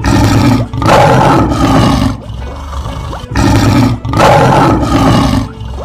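Lion roar sound effect, played twice about three seconds apart. Each roar is a short burst followed at once by a longer one, loud and rough with plenty of low rumble.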